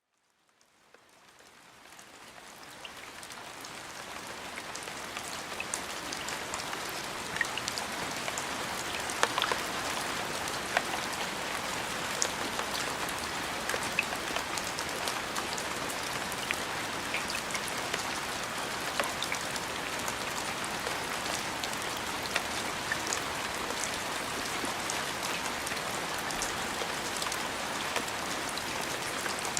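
Steady rain falling on a surface, with scattered distinct drop ticks over an even hiss. It fades in over the first several seconds, then holds level.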